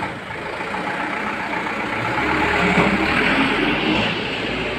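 A heavy vehicle, a bus or truck, passing close by: engine rumble and road noise swell to a peak about halfway through, then ease off.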